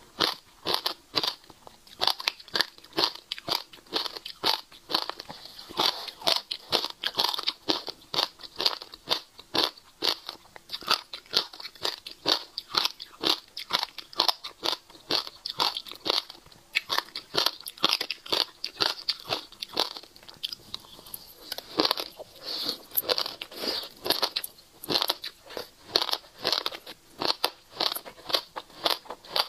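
Passion fruit seeds crunched between the teeth in quick, even bites, about three crunches a second, close to clip-on microphones. The crunching eases briefly about two-thirds of the way through, then resumes.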